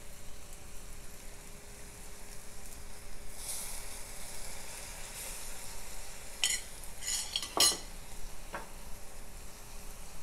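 Green beans sizzling in a stainless steel pot while chopped tomatoes are spooned in, the sizzle swelling for about a second a little over three seconds in. Several sharp clinks of a metal spoon against the pot follow, the loudest a knock about seven and a half seconds in.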